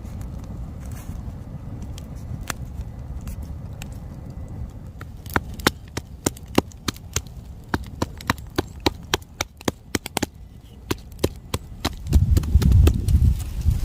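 A quick, irregular run of sharp wooden cracks and snaps, about three or four a second, over a steady low rumble; a louder low rumble comes in near the end.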